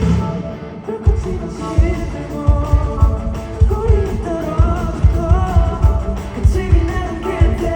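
Live rock band playing with a sung melody over drums, guitar and keyboards, heard loud. The music drops briefly, then the drums come back in about a second in with a steady heavy beat.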